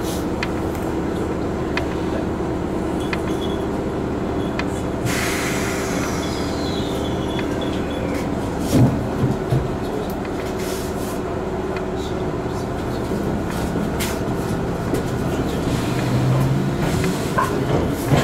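Chichibu Railway 6000 series electric train running slowly, heard from inside the carriage as a steady rumble. About five seconds in there is a short hiss with a falling high tone, and a few knocks come about halfway through.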